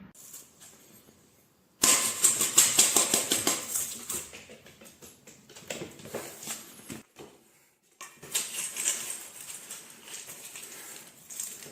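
Rapid dry clicking and rustling in two stretches, each starting suddenly: a louder one about two seconds in and another about eight seconds in.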